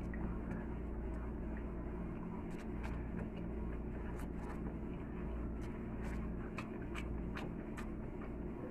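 Close mouth sounds of a person eating noodles: chewing with many short wet clicks and smacks, over a steady low hum.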